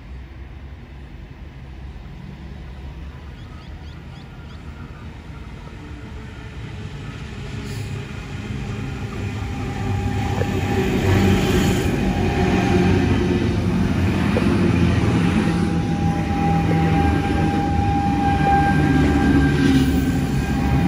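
A Sydney Trains C set, a chopper-controlled double-deck electric train, approaches round a curve and passes close by. It grows louder over about ten seconds into a steady rumble of wheels on rail, and a high whine comes and goes twice.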